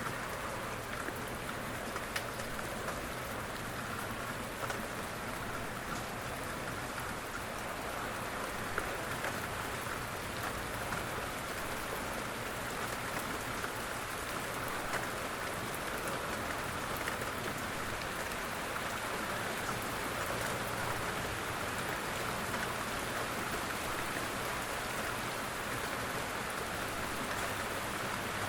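Steady rain falling and pattering on surfaces, with scattered individual drops ticking through it.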